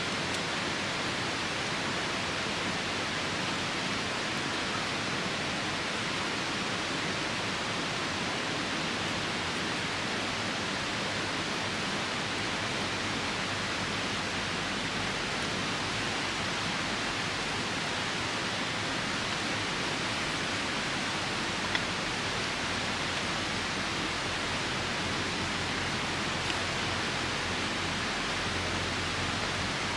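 Steady rushing noise of a nearby river in the rain, loud enough to drown out the campfire, with one sharp click about two-thirds of the way through.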